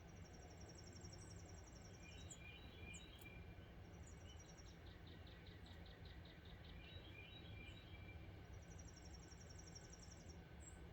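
Wild birds singing, faint: a fast, high trill sounds twice, near the start and again near the end, with lower chattering notes and a run of evenly spaced notes in between, over a faint steady low rumble.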